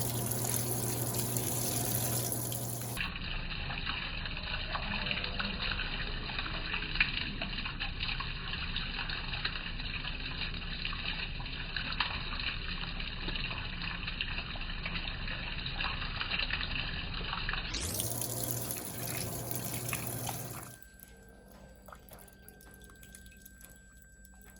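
Water running into the tub of an Electrolux Turbo Acqua Jet 15.2 kg washing machine as it fills, with a steady low hum. The flow stops about three-quarters of the way through, leaving only a faint background.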